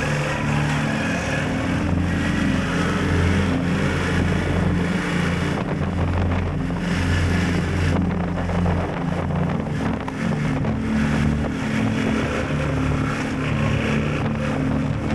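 Yamaha Tracer 7 GT's 689 cc parallel-twin engine running at a steady cruise, with heavy wind noise buffeting the helmet-mounted action camera's microphone.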